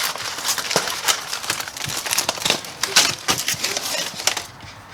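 Aluminium foil wrapped around a rack of smoked pork spare ribs being crinkled and pulled open, a dense run of crackles and sharp clicks.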